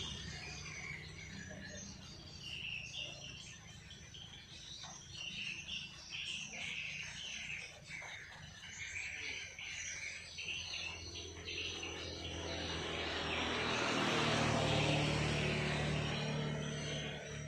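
Small songbirds chirping repeatedly in short, quick notes. A passing vehicle's noise swells and fades in the second half.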